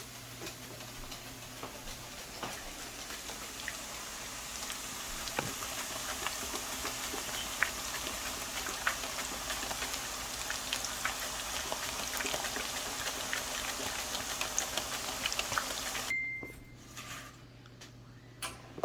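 Green plantain slices frying in hot oil: a steady sizzle with scattered crackles and pops, growing louder over the first few seconds and cutting off suddenly near the end.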